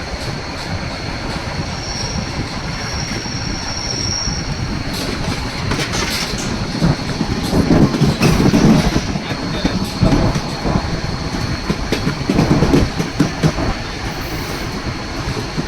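White Pass & Yukon Route narrow-gauge train running on the rails: a steady rumble and clatter of the wheels with a thin, steady high whine over it, growing louder for a couple of seconds about seven seconds in and again about twelve seconds in.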